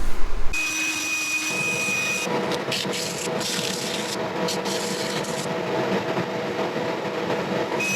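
A rosewood bowl turning on the lathe being sanded with a 2-inch, 120-grit sanding disc: a steady rubbing hiss over the machine hum, changing abruptly a few times.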